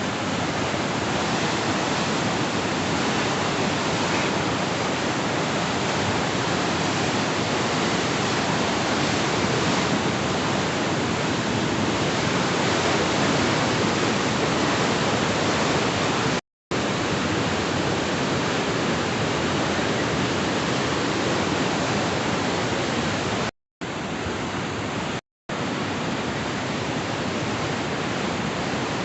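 Loud, steady rush of a river in flood, an even roar of water noise with no break in its texture. The sound cuts out completely for a moment three times in the second half.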